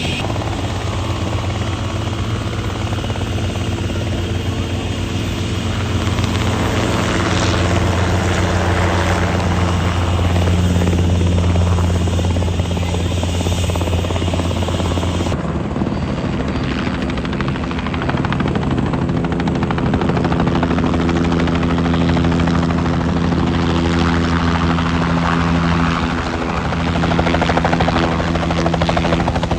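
A helicopter flying, with a steady rotor beat and turbine engine tone. The sound shifts abruptly about halfway through.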